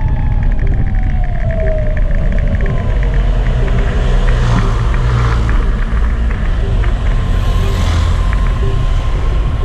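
Gogoro 2 electric scooter riding, its motor whine falling in pitch in the first couple of seconds, then rising and holding, over a steady low rumble.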